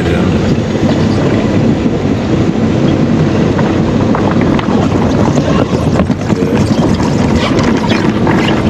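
Automatic car wash machinery working along the side of the vehicle: side brushes and water spray give a loud, steady rushing noise.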